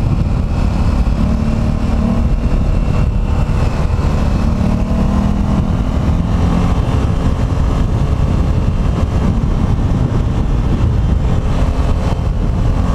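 A motor vehicle's engine running steadily on the move, under a heavy, even low rumble of road noise.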